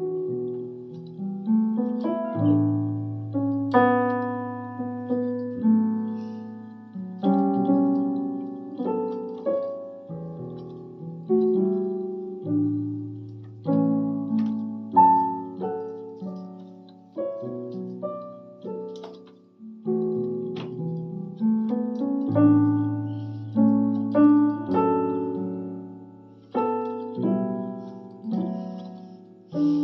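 Electronic keyboard on a piano voice playing a slow melody over chords, with long held bass notes; each note is struck and then dies away.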